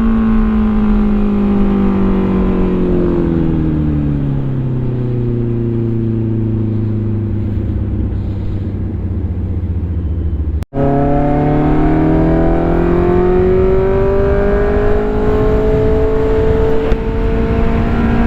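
Sport motorcycle engine heard on the move: its pitch falls over the first few seconds as the bike slows, holds low and steady, drops out for an instant about ten seconds in, then climbs steadily as the bike accelerates again.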